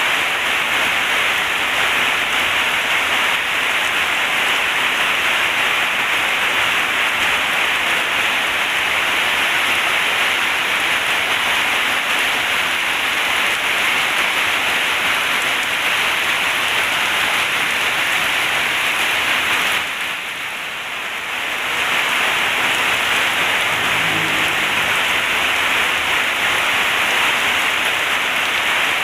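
Heavy rain pouring steadily as a dense, even hiss, dipping briefly about two-thirds of the way through.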